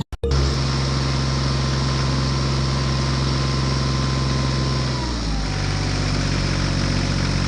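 An engine running steadily, with a slight drop in pitch about five seconds in.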